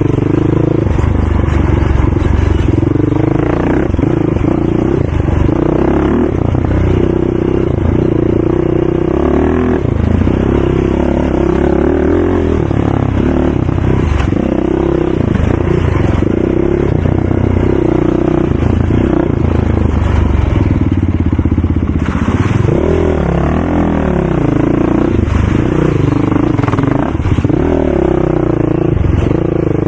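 Racing ATV engine running hard, revving up and down over and over as the throttle is worked on and off, with rattle and clatter over rough ground.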